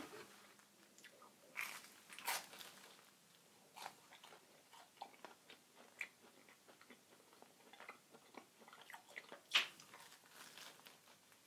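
A person chewing and biting food close to the microphone: soft, scattered mouth clicks and crunches, with a sharper bite near the end.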